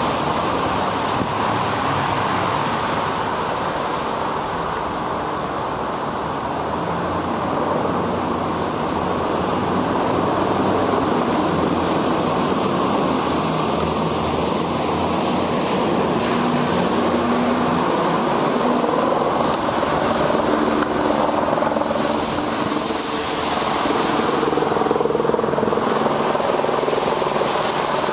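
Steady rushing noise of air and wet road picked up by a camera on a moving bicycle in the rain, with the hum of motor traffic coming and going in the second half.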